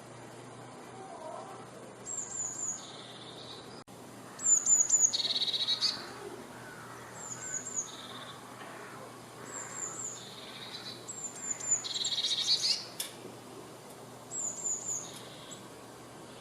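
Eurasian blue tit singing its song about six times. Each phrase is a few high, thin, falling notes followed by a lower buzzy trill. The phrases about four and a half and twelve seconds in are the loudest, and the one at twelve seconds has the longest trill.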